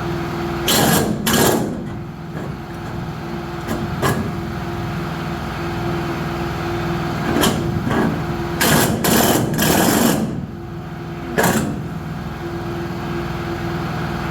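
A small electric power tool running with a steady hum, broken by about five loud, harsh bursts as it bites into material, likely metal being cut or ground.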